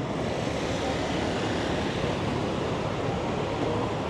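Steady city street noise: a continuous rush of traffic mixed with wind, with no distinct events standing out.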